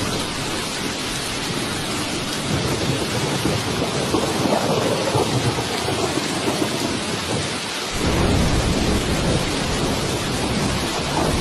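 Steady rain with rolling thunder; a deeper thunder rumble comes in suddenly about eight seconds in and carries on.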